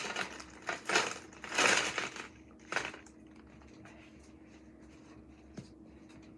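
Small plastic Lego pieces poured out of a bag into a small container, clattering in several short bursts over the first three seconds. The loudest burst comes about two seconds in.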